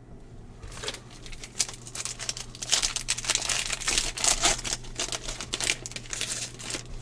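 Foil wrapper of a trading card pack crinkling and tearing as it is opened, starting about a second in and loudest in the middle.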